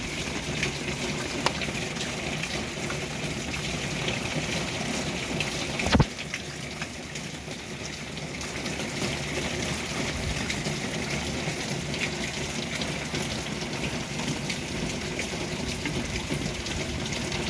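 Steady rain falling, with many small drop ticks, and one sharp knock about six seconds in.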